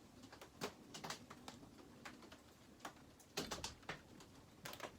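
Irregular light clicks and taps of chainsaw parts being handled and fitted, with a few clustered clicks a little past three seconds in, as the upper tank half is worked into place on a McCulloch 850.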